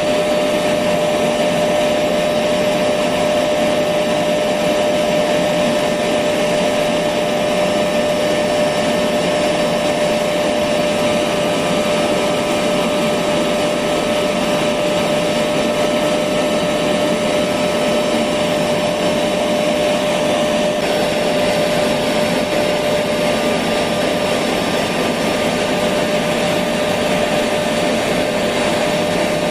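Electric vacuum cleaner running steadily: a continuous whooshing with a steady motor whine.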